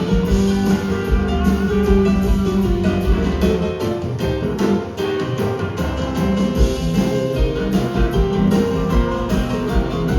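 A live blues-rock band playing an instrumental passage: guitar over bass and a drum kit.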